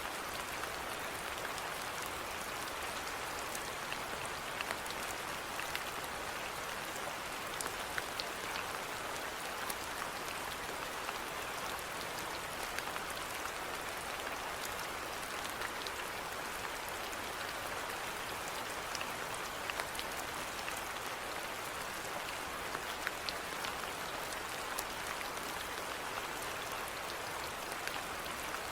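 Steady rainfall, a constant hiss of rain with scattered individual drops ticking on surfaces.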